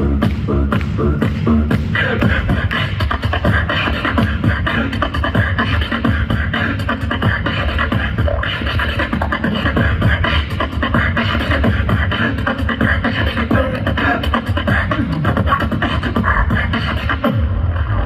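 Live beatboxing: an unbroken, rhythmic stream of vocal percussion, quick clicks and hits over low hummed bass tones.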